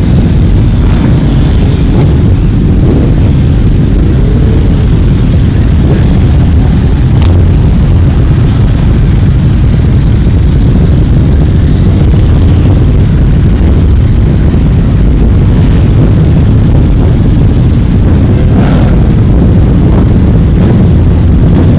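Loud, continuous rumble of many motorcycle engines running together, with a few engines revving up and down and a couple of sharp pops.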